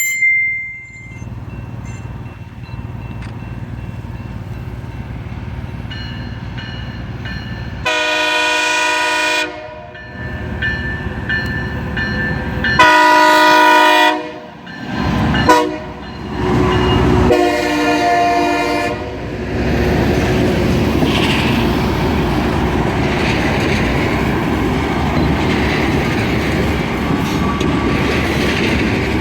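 Rail grinder train approaching and sounding its multi-tone air horn four times: long, long, short, long, the grade-crossing signal. It then passes with a loud, steady rushing rumble.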